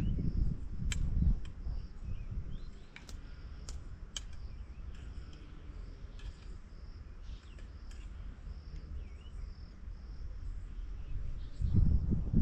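Insects chirping in a steady, evenly pulsing high trill, with a few sharp clicks scattered through it. Low thumps come near the start and again near the end.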